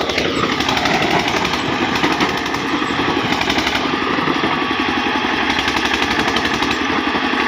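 Diesel tractor engine running with a fast, steady knocking beat. Its note drops in the first half second, then holds steady.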